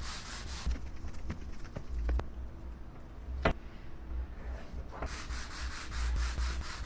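Window glass being scrubbed with a scrub pad, rapid back-and-forth rubbing strokes in two spells, with a quieter stretch and a single click in between.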